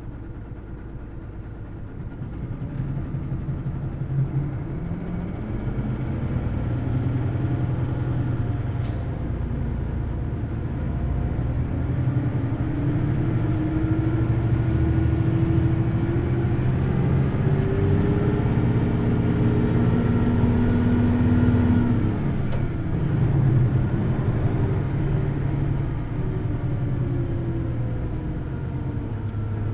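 Onboard running sound of a Hino Blue Ribbon City Hybrid bus: after a short quiet idle it pulls away, its diesel engine and electric drive rising in pitch for about twenty seconds with a faint high whine over them, then it eases off briefly and picks up again. The engine is run at high revs.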